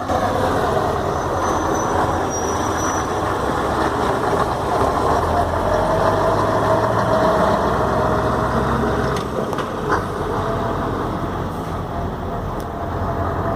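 Scania 143's V8 diesel truck engine running steadily, with a brief click about ten seconds in.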